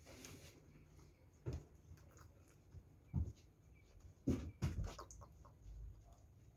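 Close-up chewing and mouth sounds of someone eating, with a few separate wet smacks.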